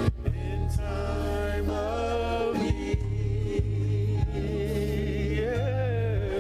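Live gospel worship music: sung vocals with a choir over bass and drums.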